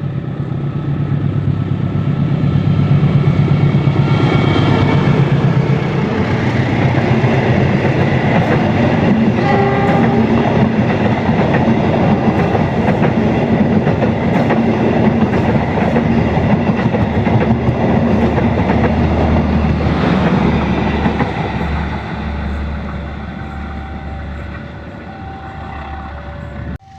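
A train passing at speed. The locomotive horn sounds over the first few seconds, then the wheels clatter and rumble loudly before fading away. Near the end an alternating two-note warning signal sounds, and the sound cuts off suddenly.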